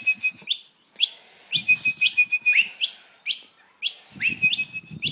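Pale-headed rosellas calling: a quick string of short, sharp chirps, about three a second, with a steady high whistle held for about a second that comes back several times.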